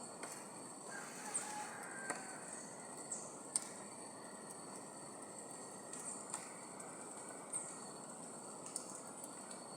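Tropical rainforest ambience: a steady high-pitched insect drone over an even low rush, with scattered short bird chirps and a few faint whistled calls about a second in.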